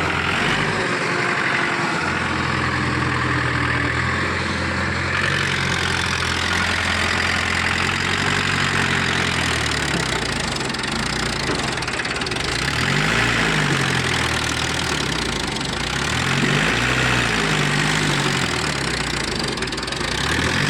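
Mahindra 475 XP tractor's diesel engine running steadily, then revved up and back down twice in the latter half.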